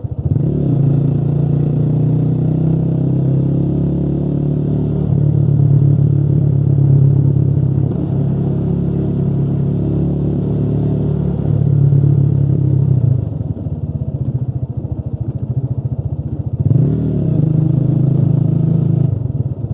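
Motorcycle engine running under way, its pitch shifting with the throttle; the revs briefly rise and fall just after the start and again near the end.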